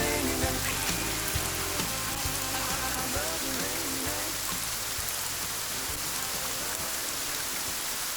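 Steady rain falling in an even hiss, with the last of a country song's music and drumbeat fading out over the first few seconds.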